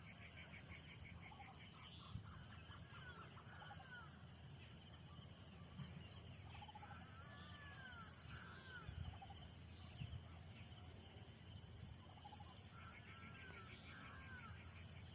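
Faint birdsong: short arched chirps and quick trilling runs, repeating every few seconds over a low steady rumble.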